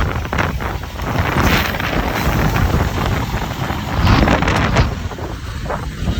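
Strong wind buffeting the microphone in uneven gusts, with a vehicle running underneath.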